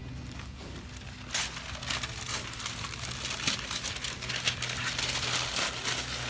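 Blue painter's tape being peeled off a car's front bumper, with the newspaper masking crumpling: a dense crackling rustle with sharp ticks that starts about a second in.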